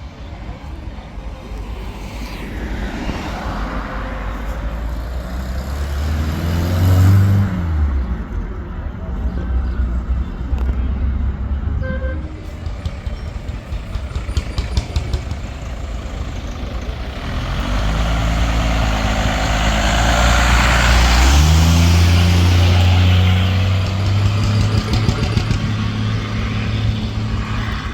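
Vintage vehicle engines running and driving past at low speed. One revs up and falls back about seven seconds in. A louder one builds from about seventeen seconds, rises in pitch as it passes and then fades.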